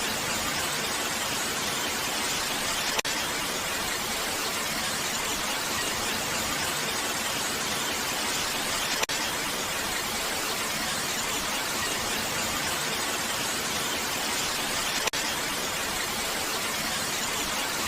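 Steady, even hiss of rain, with a faint click three times, about six seconds apart.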